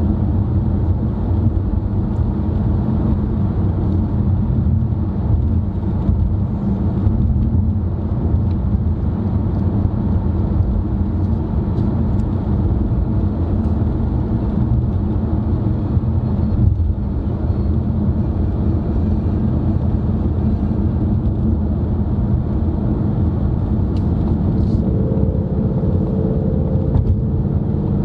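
Steady road and engine noise inside a moving car's cabin: a continuous low rumble of tyres and engine at cruising speed.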